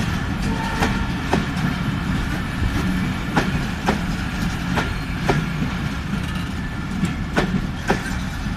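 Train running on the rails: a steady low rumble with sharp clacks coming in pairs about half a second apart, the wheels striking the rail joints.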